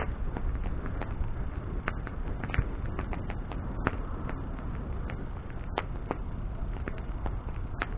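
Wood bonfire crackling, with irregular sharp pops and snaps from the burning wood over a steady low rumble.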